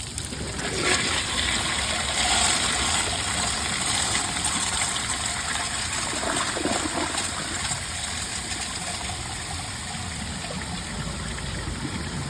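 Proflo Jerritt toilet flushing from an overfilled mid-tank with its siphon jet clogged: water rushes in about a second in, is loudest for the next few seconds, then slowly dies down.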